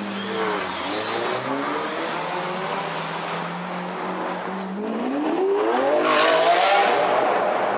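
Lamborghini Aventador's V12 engine running at low revs as the car rolls toward the camera, then revving up in a rising note as it accelerates and passes close by, loudest about six seconds in.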